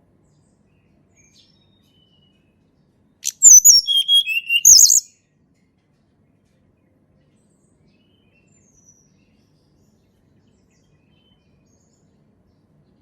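Tledekan gunung songbird singing one short phrase of quick high notes with a falling whistle, about three to five seconds in.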